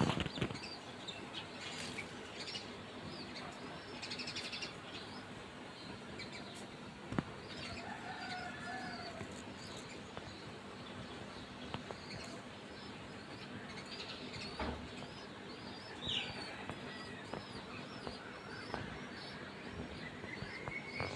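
Baby bulbul chirping: short, high calls repeated again and again over steady background noise, with a few sharp knocks.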